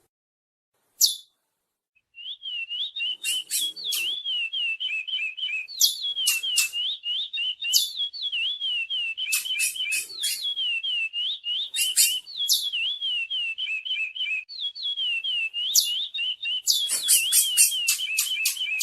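Chestnut-bellied seed finch (curió) singing: a near-continuous run of fluty, warbling whistles starting about two seconds in, broken every second or two by quick clusters of sharp, high chips.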